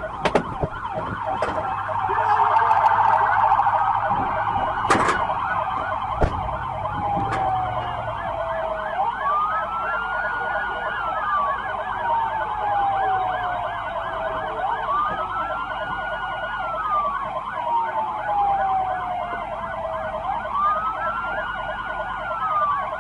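Police car sirens sounding together: a fast yelp runs throughout, and from about nine seconds in a slower wail joins it, rising, holding and then sliding down about every six seconds. A couple of sharp knocks sound about five and six seconds in.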